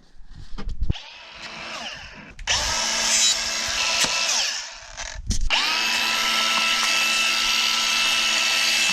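Power drill running in two runs: a short one a couple of seconds in, then a longer steady run from about halfway. Each run starts with a quick spin-up.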